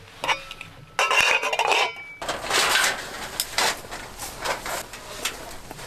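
Dried dishes and cutlery clinking as they are handled. From about two seconds in it turns into a denser rattle and rustle.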